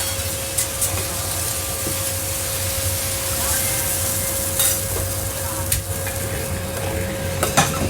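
Stir-frying in a wok: food sizzling under a steady hum, with a few sharp clanks of the spatula against the wok.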